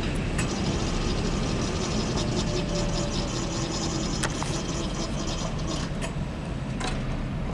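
Steady low rumble of a grain train of covered hopper cars rolling away, with a few sharp clicks while the crossing gates rise.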